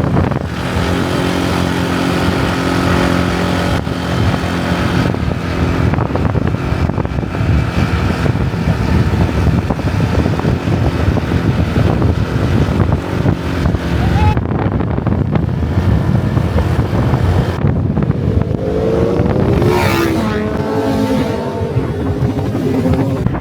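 Motorbike engine running steadily at road speed, with wind rushing over the microphone. Near the end a second engine note swells and bends in pitch.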